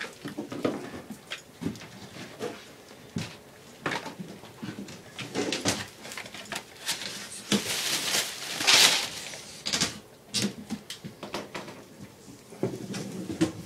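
Irregular knocks, clatter and scraping as old linoleum flooring is pried up and torn out, with a longer, louder rasping scrape about eight or nine seconds in.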